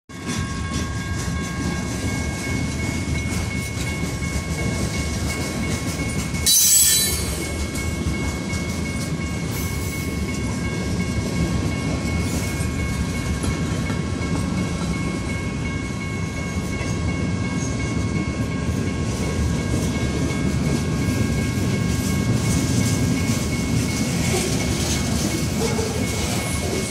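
Freight train's cars rolling past over a grade crossing: a steady low rumble with wheel clatter, and steady high ringing tones held over it. About six and a half seconds in there is one brief loud hissing burst, the loudest moment.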